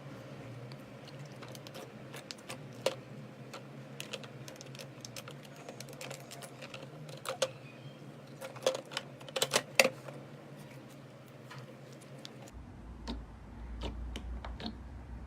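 Slime being handled and squished, giving irregular sharp clicks and pops, with a run of louder ones about halfway through.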